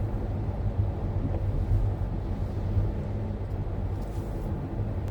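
Car interior road noise while driving: a steady low engine and tyre rumble.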